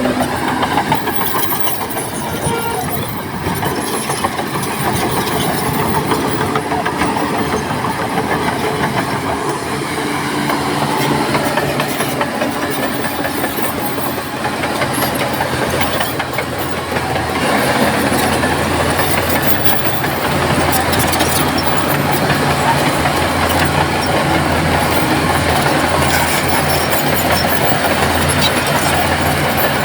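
Shantui crawler bulldozer's diesel engine working under load, with its steel tracks clattering as it pushes sand. The engine note grows louder and stronger a little past the middle.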